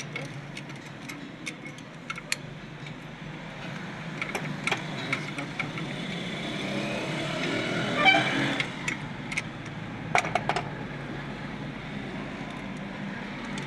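A car engine running steadily, with scattered sharp metal clicks and clinks from tools and a louder swell about eight seconds in.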